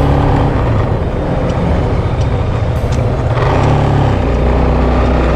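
SYM VF3i 185 scooter's single-cylinder engine running while riding, its steady note breaking into a rougher, noisier stretch for a few seconds in the middle before settling again.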